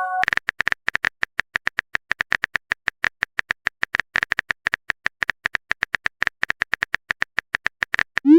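Fast, even clicking of a phone-keyboard typing sound effect, about eight to ten clicks a second. The last notes of a message-notification chime fade out at the very start, and a short rising blip begins right at the end.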